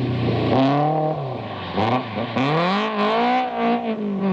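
Rally car engine revving hard, its pitch climbing and dropping several times with gear changes and throttle lifts, over a rushing hiss.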